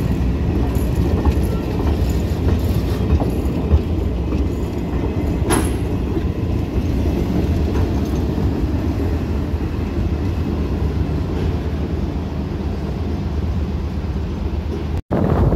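Excursion train's passenger coaches rolling past close by: a steady low rumble of wheels on rail, with one sharp click about five and a half seconds in. The sound cuts out briefly near the end.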